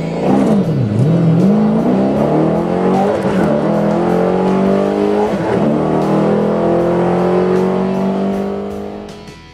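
Car engine at full throttle accelerating hard down a drag strip, its pitch climbing in each gear and dropping back at three upshifts, then climbing steadily before fading out near the end.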